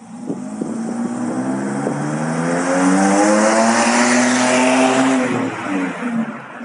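Jeep Grand Cherokee WK's 3.7 V6 through a straight-through exhaust (catalytic converters removed, glasspack and Fortluft American Muscle muffler), accelerating with the pitch climbing steadily for about five seconds, then easing off near the end.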